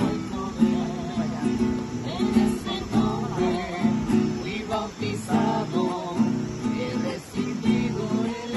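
Acoustic guitar strummed in a steady rhythm, with voices singing along in places.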